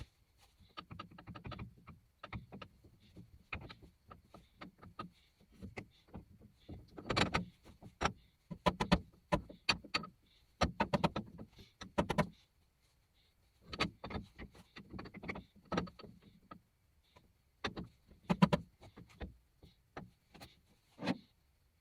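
Irregular clusters of knocks and clatter, with short pauses between, the sound of objects being handled.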